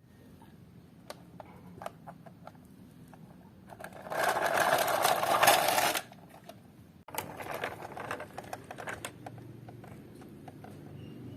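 Small toy cars being handled, giving scattered light clicks and knocks, with a louder dense rattle lasting about two seconds in the middle.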